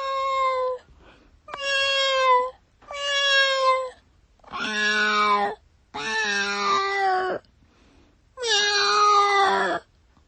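Domestic cat meowing repeatedly: six long, drawn-out meows with short pauses between them, each falling slightly in pitch.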